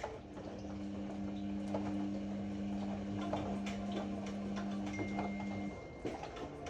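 Ariston AML125 washer-dryer running: a steady low motor hum that cuts off about five and a half seconds in, with light ticking and clicking throughout.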